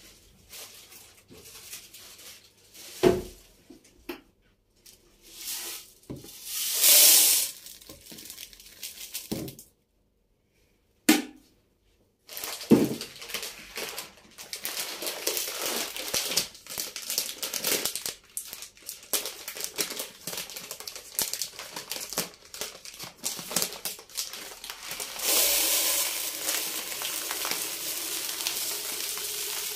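Household handling sounds: crinkling packaging and knocks of containers being set down, in several short takes, with a steady hiss near the end.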